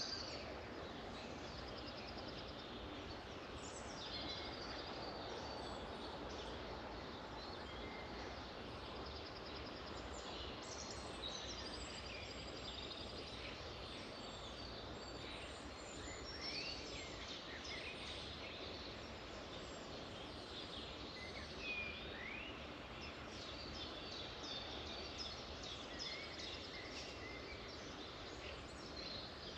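Several songbirds singing and calling at once: short chirps, upward-sweeping whistles and fast trills, over a steady background hiss of forest ambience.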